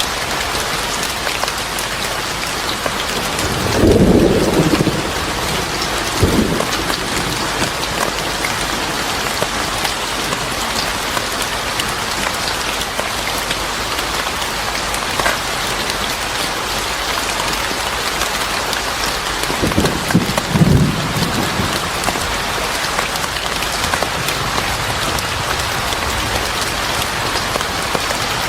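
Steady rain falling, with low rumbles of thunder about four seconds in and again about twenty seconds in.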